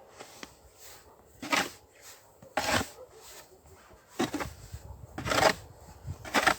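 A snow shovel scraping and scooping heavy, wet snow in short strokes, five rasping scrapes roughly a second apart.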